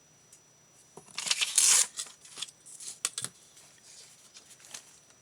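Craft paper being handled on a desk: a loud rustle about a second in, then a few sharp clicks and taps and lighter rustling.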